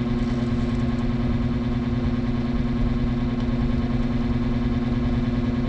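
A low, steady electric-motor hum that never changes: a machine running continuously in the garage.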